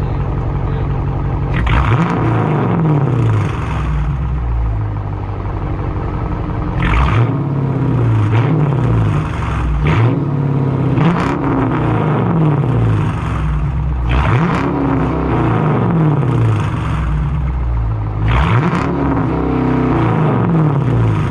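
Dodge Challenger R/T's 5.7-litre HEMI V8 with the mid muffler and resonator deleted, nearly straight-piped, running loud. It holds a steady note at first, then revs up and drops back several times as the car pulls away and accelerates, with a short sharp burst at each change.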